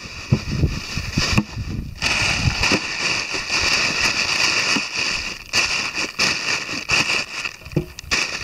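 Packing gear into a motorcycle pannier: a steady rustle and crackle of bags and items being handled, with many small knocks and thumps as things are shifted into place.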